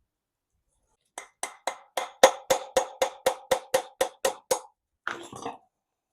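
Hammer tapping a punch into the steel big-end caps of the M110 engine's connecting rods, marking them so each goes back where it came from. About fourteen quick, even ringing taps at roughly four a second, then a short metallic scrape near the end.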